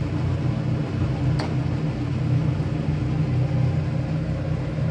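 A steady low mechanical hum, as from a small motor or fan, with one short click about a second and a half in.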